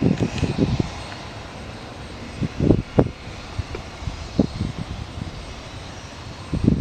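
UH-60 Black Hawk helicopter running during takeoff, its twin turboshaft engines and rotor giving a steady noisy drone. Irregular low gusts of wind buffet the microphone several times.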